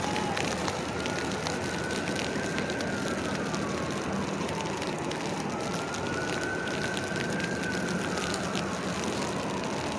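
An emergency vehicle's siren wailing in slow rises and falls, two full cycles, over a steady din of city traffic.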